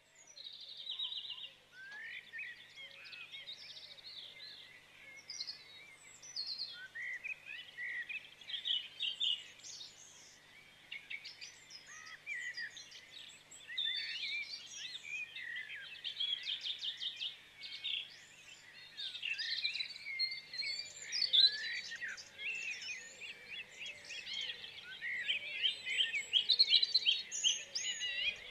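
Birds chirping and singing, many short high calls overlapping, busiest in the last few seconds.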